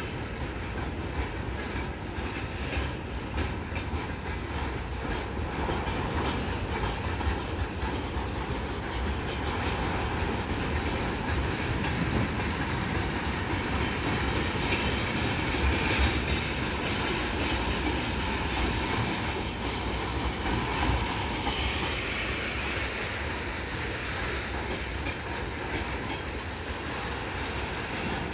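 A train running past on the track, a steady rolling rumble of wheels on rails with fine clicking. It grows louder through the middle and eases slightly toward the end.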